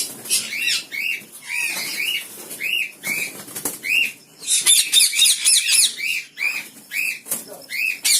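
Caged parrots calling: a steady run of short, arching squawks, with two stretches of dense, harsh screeching, one near the start and one about halfway through.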